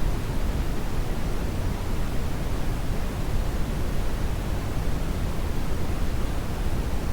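Steady brown noise: an even, unchanging hiss weighted toward the low end, like a deep rumble without pitch or events.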